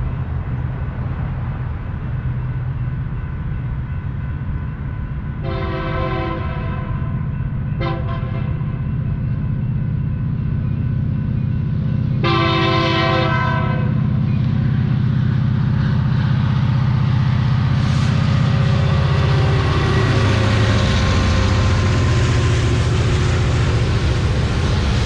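Diesel locomotives of a freight consist drawing near, their engines a steady low drone, with the horn sounding a long blast, a short one about a second later, and a final long blast, the grade-crossing signal. After the horn the noise of wheels on rail grows louder as the locomotives pass.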